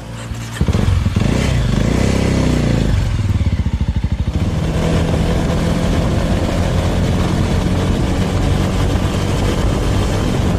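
Suzuki Thunder motorcycle engine pulling away: the revs rise sharply about half a second in and swing up and down over the next few seconds, then settle into a steady run.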